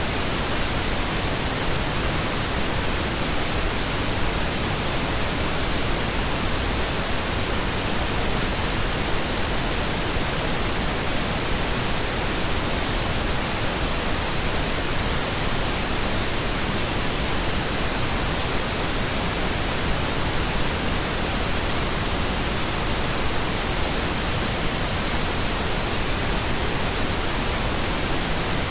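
Steady pink noise: an even, unchanging hiss spread across low and high pitches alike, with nothing else in it.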